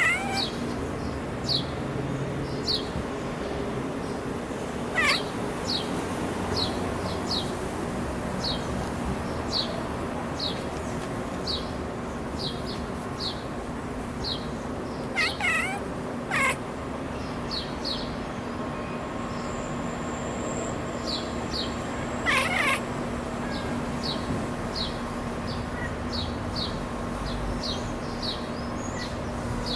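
Domestic cat chirping and chattering at birds in a few short bursts: at the start, about five seconds in, twice around the middle, and once about three-quarters through. Behind it, a bird's short high chirps repeat steadily.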